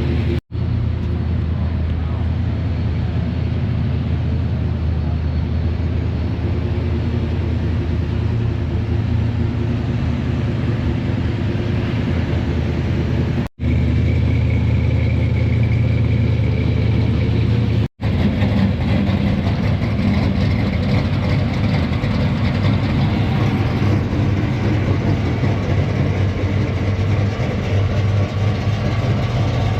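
Car engines running steadily with a low hum, broken by three brief dropouts where the recording cuts.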